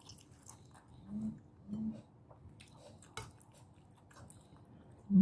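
Close-up chewing with many small wet mouth clicks and smacks. There are two short hummed 'mm' sounds about a second and nearly two seconds in, and a sharper click around three seconds.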